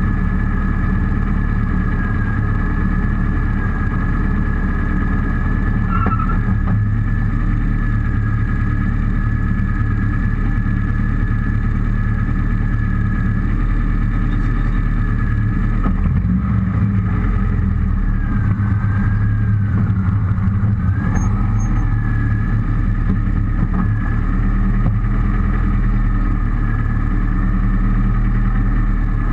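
Rally car engine idling steadily, with a constant high whine over it.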